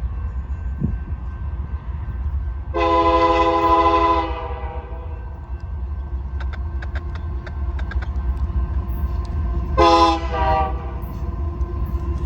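Diesel freight locomotive's multi-chime air horn: a long blast about three seconds in and a short one near the ten-second mark, over the steady low rumble of the train. A few sharp clicks come in between.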